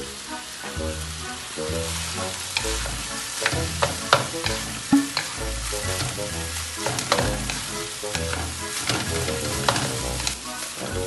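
Corned beef fried rice sizzling in a nonstick wok as a wooden spatula stirs and scrapes it, with sharp clacks of the spatula against the pan, the loudest a few seconds in.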